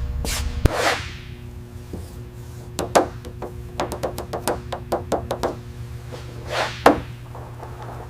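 A run of sharp knocks and taps, about a dozen of them, most packed together in the middle, with a swish near the start and another near the end, over a steady low hum.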